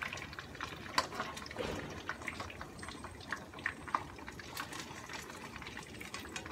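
Battered vegetable slices frying in hot oil in a pan: a steady crackling sizzle. A few light clicks come as chopsticks and a spoon turn the pieces.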